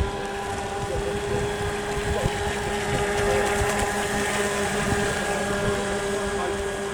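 A boat's motor running at a steady pitch, a constant whine with overtones, with wind buffeting the microphone.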